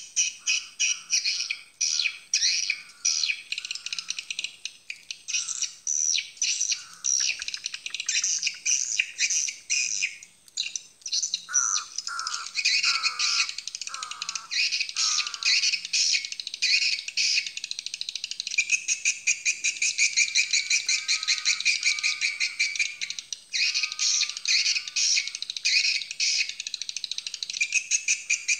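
Swiftlets twittering in dense, rapid chirps. A run of about five downward-sweeping calls comes around the middle.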